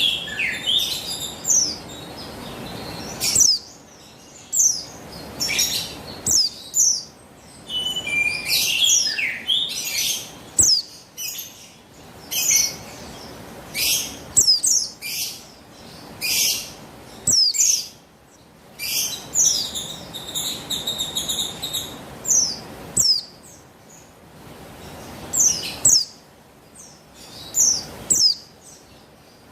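Female buxtoni oriental white-eye (pleci) calling: short, high, down-slurred chirps in quick clusters with brief pauses, with a faster trill about two-thirds of the way through, over a low background hiss.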